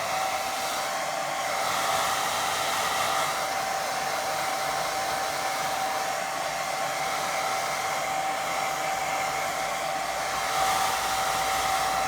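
Hair dryer blowing steadily on a wet watercolour painting to dry it, a constant rush of air with a steady whine.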